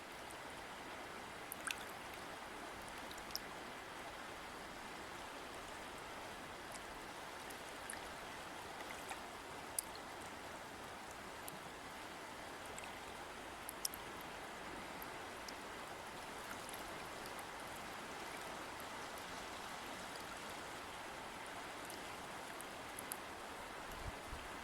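A river or stream flowing, a steady rushing of water with a scattering of small, sharp splashes.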